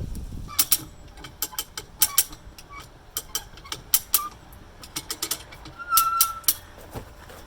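Hand come-along winch being ratcheted, its pawl clicking in uneven clusters of sharp clicks as it takes up tension to pull bent car body metal back into shape. A brief squeak about six seconds in.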